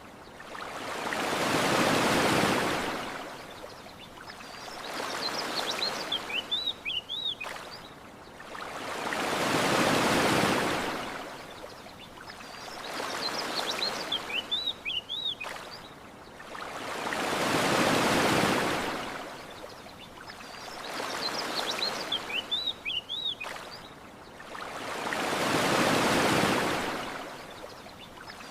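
Gentle ocean waves washing onto a beach, each one swelling up and fading over several seconds, four in all about eight seconds apart. Small birds chirp in quick high bursts in the lulls between the waves.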